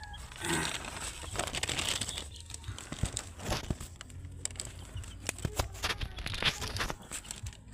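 Irregular rustling and crinkling with many short clicks and knocks scattered through it, like something being handled or shuffled about.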